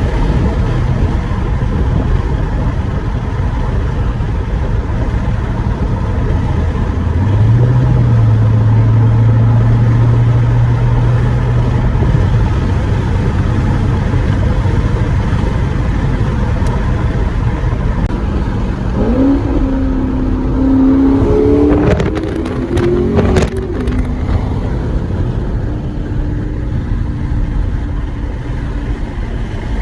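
A 2014 Corvette C7 on the move, with heavy wind noise and road rumble. Its 6.2-litre LT1 V8 holds a steady drone for a few seconds about a quarter of the way in, then revs up in quick rising steps about two-thirds of the way through, with a few sharp knocks, before settling to a steady note.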